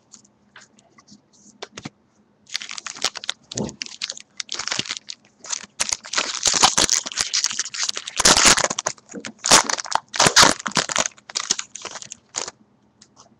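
Plastic or foil wrapping on a trading-card box or pack being torn open and crumpled. A dense, loud crinkling starts about two and a half seconds in and stops just before the end.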